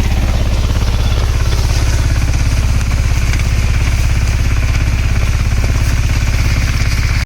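Mini tractor's diesel engine running steadily, with a rapid, even, low knocking beat. It cuts off abruptly near the end.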